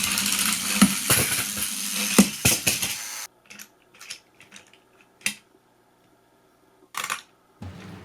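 Battery-powered plastic toy train motors whirring with plastic clattering and a few sharp knocks, stopping suddenly about three seconds in; after that, only scattered light plastic clicks.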